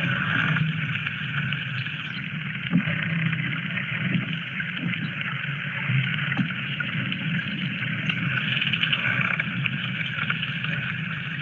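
Hydrophone recording of the seabed under a pier: a steady underwater crackling noise with scattered sharp clicks.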